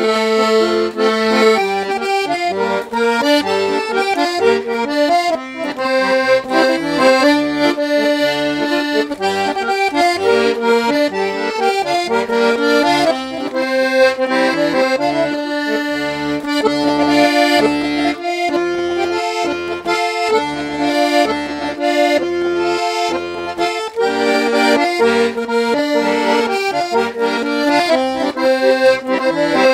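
Parrot Peacock piano accordion with three-voice LMM reeds being played: a melody of held notes on the treble keys over a regular, rhythmic accompaniment on the bass buttons.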